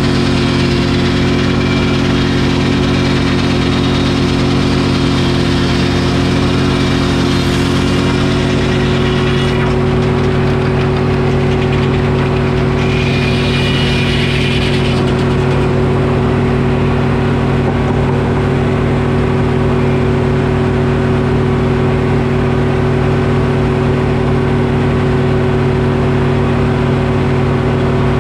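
Detroit Diesel engine running a Frick sawmill at a steady speed. A broad hiss rides over it and stops about nine seconds in, and a short, higher-pitched burst comes a few seconds later.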